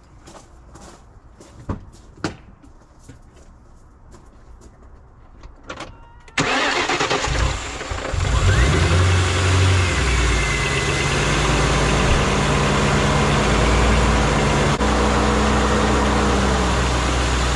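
A few light clicks, then about six seconds in the MG ZT 260's Ford 4.6-litre V8 cranks, catches and settles into a steady idle, turning the newly fitted serpentine belt tensioner and idler pulleys. The electric cooling fans run loudly alongside.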